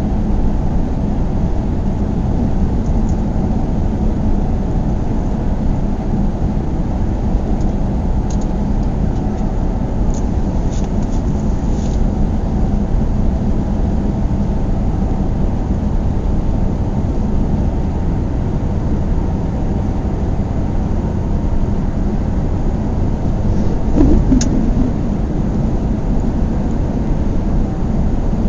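Car driving at a steady speed: continuous engine and road noise with a steady low hum. A few faint ticks come partway through, and a single brief knock sounds near the end.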